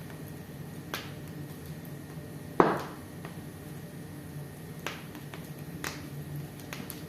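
Fire burning in a fireplace, a low steady rumble of flames with scattered sharp crackles and pops. The loudest pop comes about two and a half seconds in.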